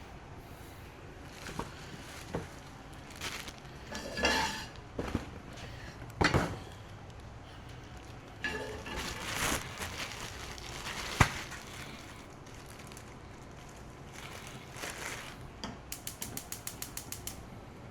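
Kitchen handling noise: plates, pans and utensils clinking and knocking on and off, one sharp knock the loudest. Near the end, a fast run of even clicks, about six a second, like a gas burner's igniter sparking.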